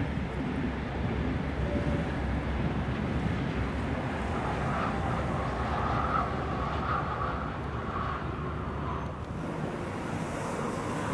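Electric passenger train (DB Class 101 locomotive with Eurocity coaches) crossing a river bridge at a distance: a steady rumble with a thin whine from about four to nine seconds in, under heavy wind noise on the microphone. After a cut about nine seconds in, the distant sound of a freight train on the bridge under the wind.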